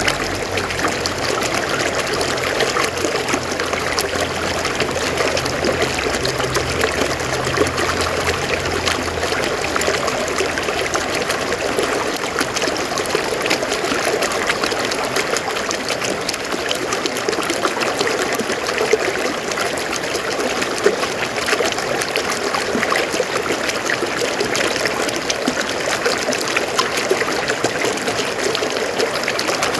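River water flowing and trickling over rocks, a steady babbling rush.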